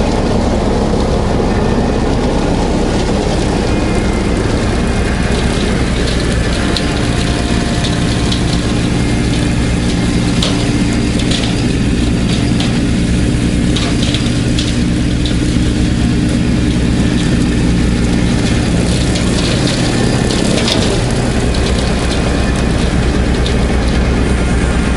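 Kubota B2650 tractor's three-cylinder diesel engine running steadily.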